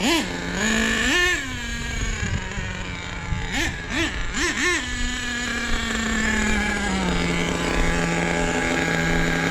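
Small nitro RC truck engine idling steadily, with several quick throttle blips that rise and fall in pitch near the start and around the middle; the idle settles a little lower near the end. The tune is running rich ("so fat").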